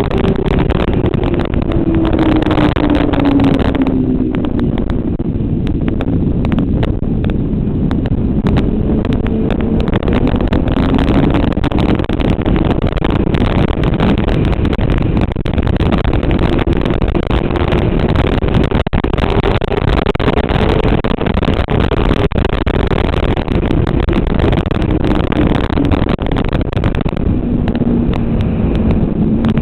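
Motorcycle engine ridden hard on a race track. Its pitch falls and rises again and again as the bike slows and accelerates, over a heavy rush of wind noise.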